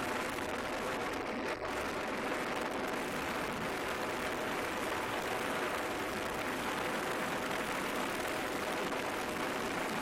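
Yamaha MT-15 motorcycle under way: a steady rush of wind over the microphone, with the engine running faintly underneath at an even speed.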